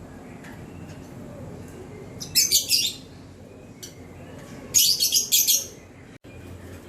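Gloster canary chirping: two short bursts of rapid, high-pitched notes about two seconds apart.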